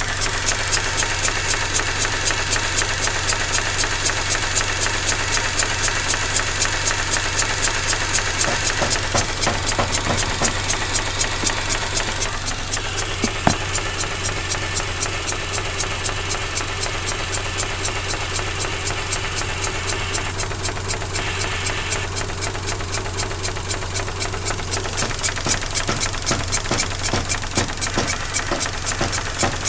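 2004 Mazda RX-8's Renesis twin-rotor rotary engine idling very roughly, with a pulsing air-suction sound and a tick from the shutter valve (SSV) about four times a second, a third of the idle speed. The pulses are softer for a stretch in the middle. The owner thinks the pulse could mean a blown side seal on one rotor face.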